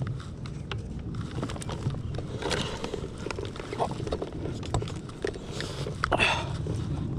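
An electric trolling motor being lifted and tilted up on a small boat: scattered knocks and clunks of its mount and shaft, the two loudest about two and a half seconds in and near the end, over a steady low rumble.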